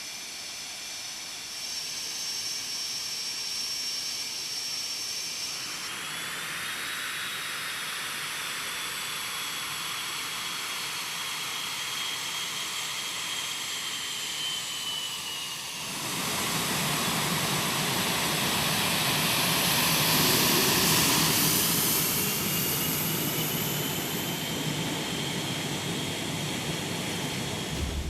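Jet aircraft engines running with a high whine whose pitch slowly falls. About halfway through the sound grows louder and fuller with a deep rumble, peaking a few seconds later as a new whine rises.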